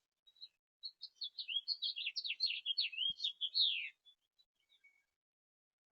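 A songbird singing one fast, jumbled warbling phrase about three seconds long, followed by a few faint single notes.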